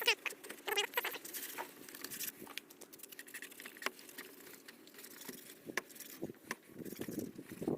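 Irregular light pattering and scattered small taps of water splashing and dripping as the headlight assemblies are washed down.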